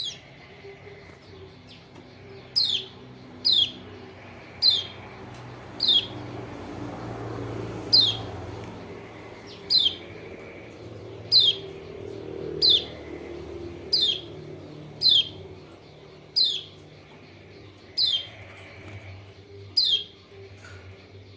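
Kecial kuning (Lombok white-eye) call, played as a lure: one short, sharp note sweeping downward, repeated about fifteen times at uneven gaps of one to two seconds. A low steady hum sits underneath.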